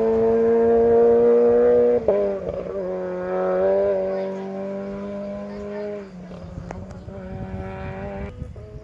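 Rally car engine held at high revs, its pitch creeping up, then breaking off sharply about two seconds in as the driver shifts or lifts. It carries on at steady revs and fades away from about six seconds in.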